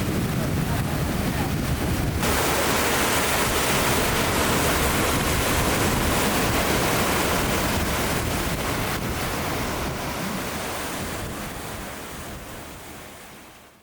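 Sea surf rushing on the shore with wind buffeting the microphone, a dense steady roar of noise that changes character about two seconds in and fades out over the last few seconds.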